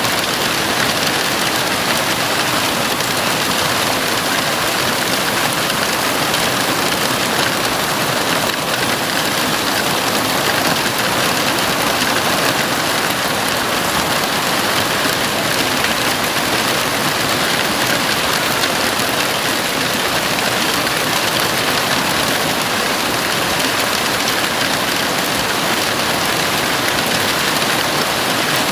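Heavy rain falling on a house roof: a steady, even hiss with no separate drips or thunder standing out.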